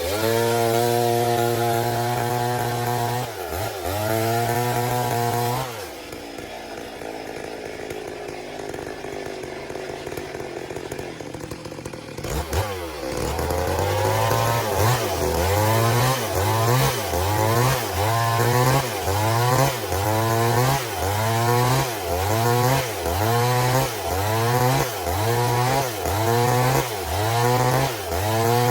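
Stihl MS 382 two-stroke chainsaw ripping a log lengthwise: running at high revs, then dropping to a lower, quieter speed for about six seconds. It then picks up again, its engine speed dipping and recovering about once a second.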